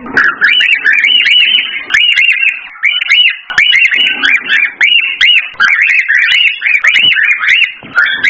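Cockatiel calling in a fast, unbroken run of short, arched whistled chirps, about three a second: excited male cockatiel song of the kind played to stimulate breeding.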